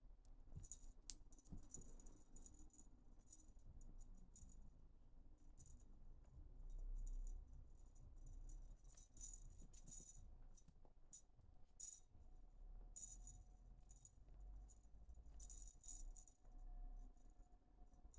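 Faint, irregular rattling of a dangling cat toy, in short bursts as a kitten bats, grabs and kicks at it.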